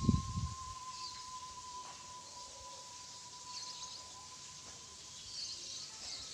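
Bamboo neck-collar pigeon whistle (sawangan) sounding one steady, thin whistle tone that wavers slightly. A few low thumps come right at the start, and faint high chirps come now and then.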